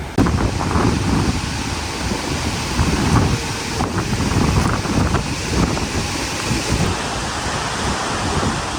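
Strong gusting wind blowing over the microphone, a loud uneven rush of noise that is heaviest at the low end.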